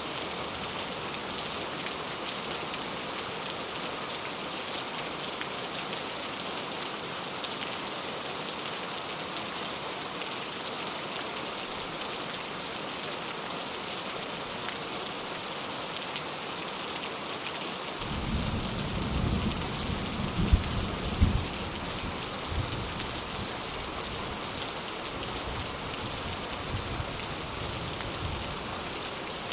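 Steady rain falling in an even, dense hiss. About eighteen seconds in, a low rumble of thunder rolls in, with a few louder peaks a couple of seconds later, then rumbles on more faintly under the rain.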